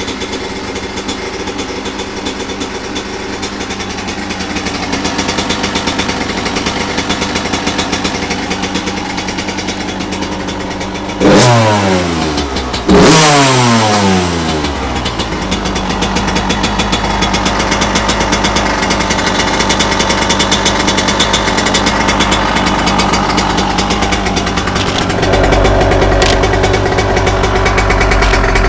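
Suzuki RM85's small single-cylinder two-stroke engine idling after a first-kick start on a newly fitted spark plug. It is revved twice, about 11 and 13 seconds in, each rev climbing sharply and dropping back. A heavier low rumble comes in near the end.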